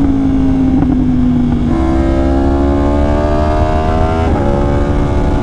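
2020 Yamaha R1's crossplane inline-four running through an SC Project exhaust under way. The note steps up about a third of the way in and climbs steadily as the bike accelerates, then drops sharply near the end at an upshift.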